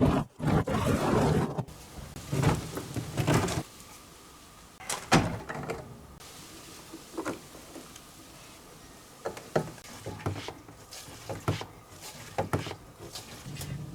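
Workshop handling noises: a run of clicks and knocks with two short scraping or rustling passages in the first few seconds, then sparser knocks.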